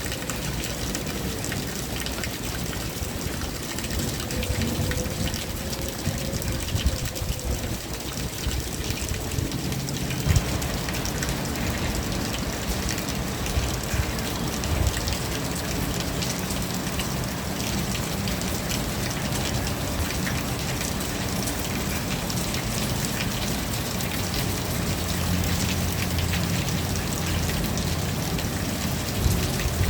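Rain falling steadily, a dense patter of drops on surfaces. From about ten seconds in, a low steady hum joins it under the rain.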